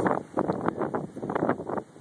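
Wind buffeting the microphone in a snowstorm: rapid, irregular rough gusts.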